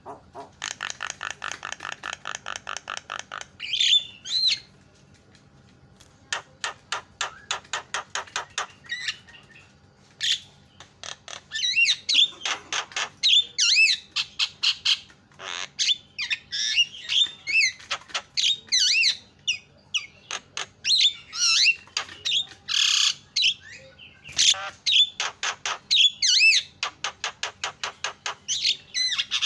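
Javan myna (jalak kebo) calling: fast rattling chatter of about ten clicks a second near the start and again a few seconds later, then a dense run of loud whistles, chirps and harsh squawks. It is a lure recording of the kind played to set other mynas calling.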